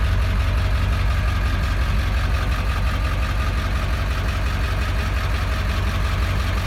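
7.3-litre diesel truck engine idling steadily with a deep, even rumble.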